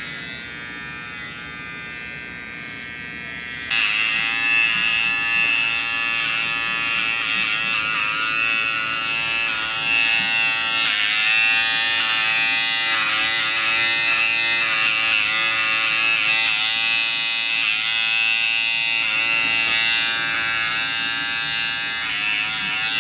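Electric animal clippers buzzing steadily as they shave fur, the pitch dipping slightly now and then as the blades meet the coat. The buzz gets suddenly louder about four seconds in.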